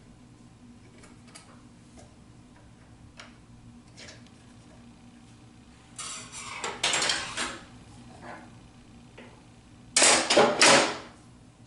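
Tools and parts being handled on a table saw setup: a few faint clicks and ticks, then two bursts of clattering and scraping, about six and ten seconds in.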